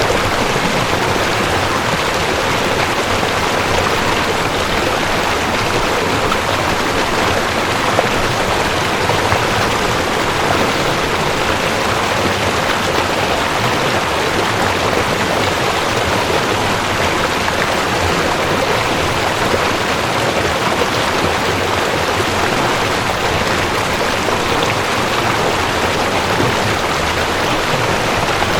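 Mountain stream rushing over rocks, a steady, even rush of water without a break.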